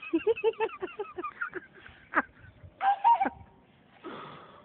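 A person laughing hard in quick, honking bursts, followed about three seconds in by a short, higher-pitched vocal cry.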